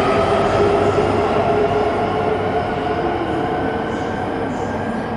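Coupled E5 and E3 series Shinkansen train running along the station track, its wheels rumbling on the rail under several steady whining tones, fading gradually as it pulls away.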